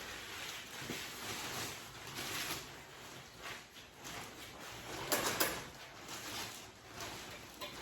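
Rustling and scraping handling noises, with a louder scrape about five seconds in.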